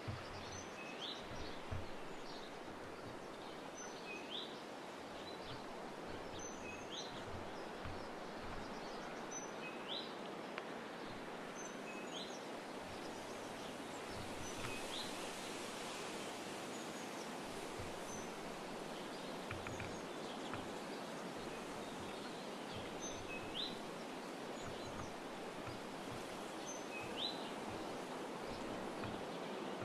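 A small songbird calling over and over, each call a short rising note, roughly every two seconds, with a few thinner high notes in between, over a steady hiss of outdoor background noise and some scattered soft low knocks.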